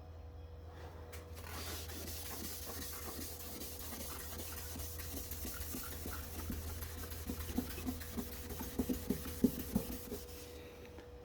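Steady scratchy rubbing, something being rubbed by hand against a surface, with several light knocks near the end.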